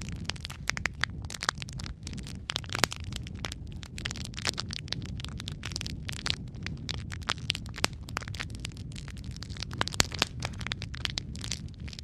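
Wood fire crackling in a fireplace: frequent sharp pops and snaps over a steady low rumble of burning.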